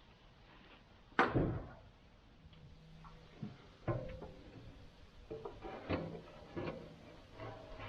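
A series of knocks and clunks at irregular intervals: one loud knock with a short ring about a second in, then several lighter ones.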